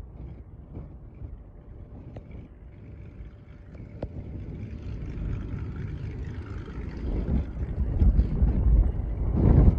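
Aircraft engine rumble growing steadily louder over several seconds, loudest near the end, with wind buffeting the microphone.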